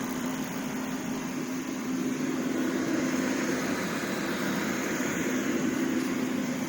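Heat Star portable propane heater running: a steady rush of fan air and burner flame with a constant low hum.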